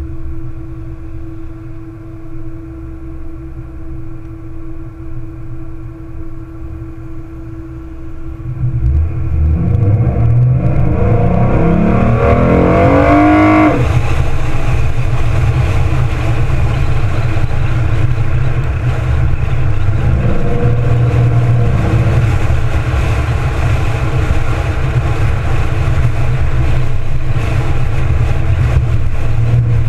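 2014 Ford Mustang's 3.7-litre V6 running steadily at low revs, then about eight seconds in it opens up under hard acceleration, its note rising for about five seconds until a gear change breaks it off. It then settles into loud steady cruising, with wind and road noise over the open car.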